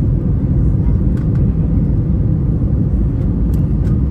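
Steady low rumble of an Airbus A321's engines and airflow heard from inside the passenger cabin on the landing approach, with a few faint ticks.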